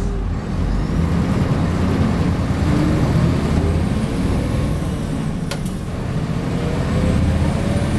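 Hino Blue Ribbon HIMR II hybrid city bus heard from inside the cabin, its diesel engine pulling the bus away from a stop. A faint whine rises slowly in pitch over the last few seconds as it gathers speed.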